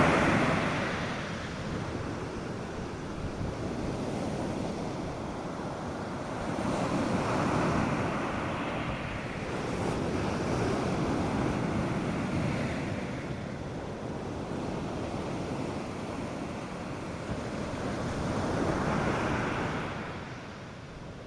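North Sea surf breaking on a sandy beach: a continuous wash that swells with each breaking wave, about every few seconds, with light wind on the microphone.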